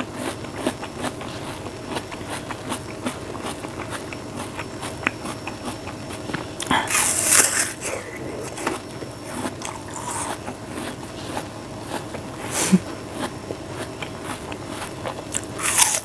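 A person chewing a piece of fresh fruit close to the microphone: a stream of small wet crunching clicks, with a louder crunching bite about seven seconds in and another at the end.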